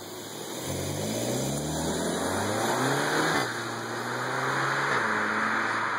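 SEAT Leon ST Cupra 280's turbocharged 2.0-litre four-cylinder accelerating hard in a fly-by: the engine and exhaust note climbs steadily, drops sharply about halfway through as the car goes past, then holds at a lower pitch as it pulls away.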